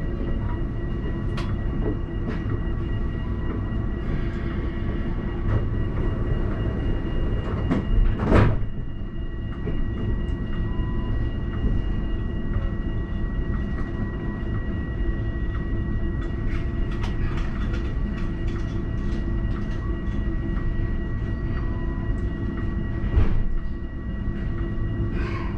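Alstom Citadis tram heard from the driver's cab: a steady rumble and hum with a constant high electrical whine. There are scattered clicks, a loud knock about eight seconds in and another near the end.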